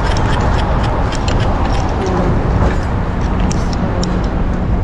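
Wind buffeting the microphone in a snowstorm: a loud, unsteady low rumble, with faint street noise under it.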